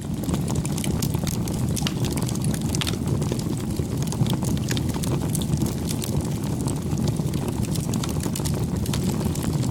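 Campfire burning: a steady low rush of flame with frequent small, irregular crackles and pops of burning wood.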